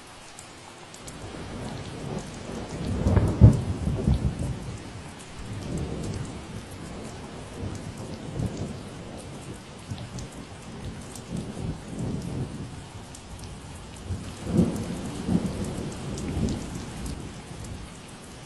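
Steady rain falling, with a long roll of thunder: it builds about a second in, is loudest a few seconds in, rumbles on in swells, rises again near the end and then fades.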